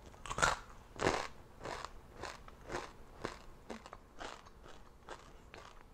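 A person chewing a giant centipede, its hard shell crunching at about two chews a second, loudest in the first second and growing fainter.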